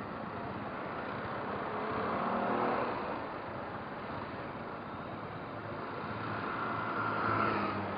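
Motorcycle engine running on the road under heavy wind rush, its note swelling and rising about two seconds in and again near the end.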